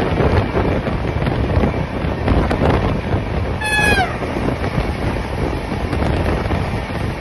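Wind rush and running rumble of a moving train, heard from an open window as a Vande Bharat Express passes on the next track. About three and a half seconds in, a brief high whistle falls in pitch.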